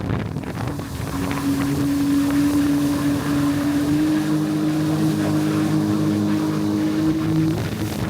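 Jet ski engine running under way, its pitch breaking up briefly at the start, climbing slightly about four seconds in and dropping off near the end, with wind buffeting the microphone.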